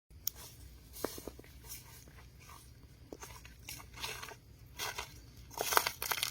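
Scattered small clicks and soft rustling, turning into louder crunching and rustling about five and a half seconds in.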